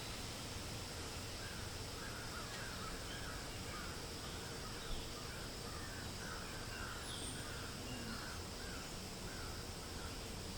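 A bird calling a long run of short, harsh notes, about two a second, over steady wind hiss in the trees. There is one brief tick about halfway through.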